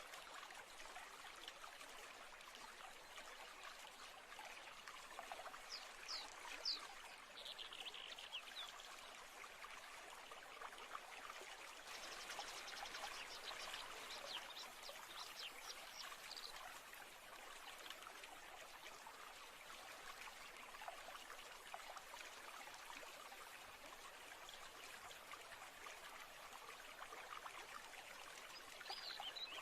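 Faint, steady trickle of running stream water, with a few short, high chirps about six seconds in, around the middle, and again near the end.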